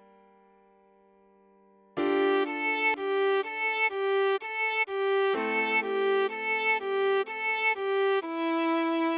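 Viola playing after a near-silent pause of about two seconds: short bowed notes alternating between two pitches, roughly two a second, over a held lower note that steps down to a lower pitch about halfway through.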